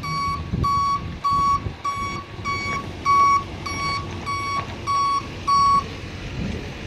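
Tow truck's reverse alarm beeping, just under two beeps a second, over the low running of its engine. The beeping stops about six seconds in, the sign that the truck has stopped reversing.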